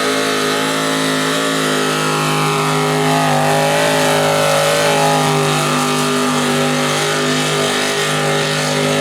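Big-block Ford V8 of a pulling tractor at full throttle, held at a steady high pitch as it drags the weight sled down the track, with a slight waver in pitch midway.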